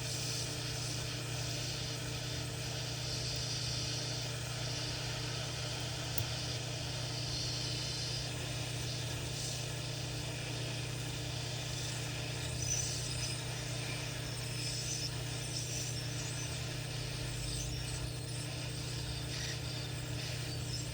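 Hot-air rework station blowing steadily onto a circuit board to desolder an IC: an even rush of air over a steady low hum.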